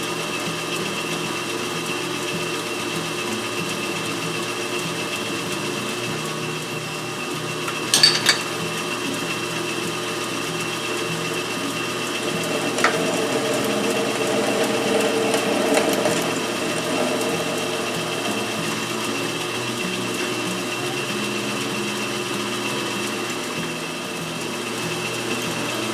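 Metal lathe running steadily while a drill bit bores into the end of a spinning half-inch rod held in a four-jaw chuck. There is a sharp click about eight seconds in, and the sound swells slightly a few seconds later.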